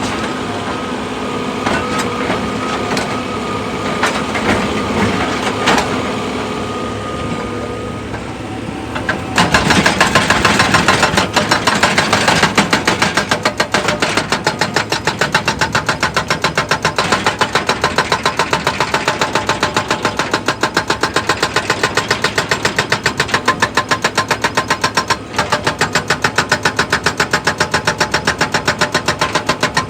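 Heavy machine's diesel engine running, with steady whine and scattered knocks; about nine seconds in it turns abruptly louder, into a rapid, even pulsing.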